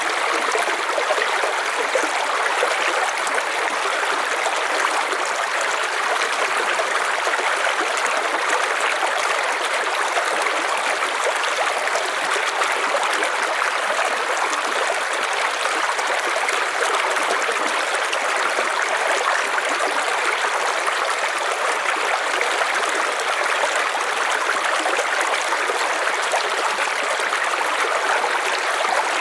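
River water running over stones in a steady rushing flow with trickling, unbroken throughout.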